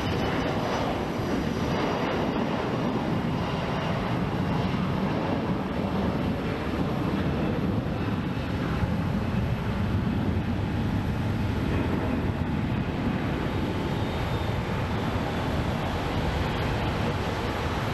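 Jet airliner's engines at takeoff power departing the runway: a steady deep rumble, with a faint high whine early on that fades away.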